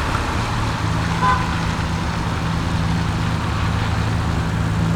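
Alfa Romeo 8C Spider's 4.7-litre V8 running at a steady engine speed, with an even, unchanging exhaust note.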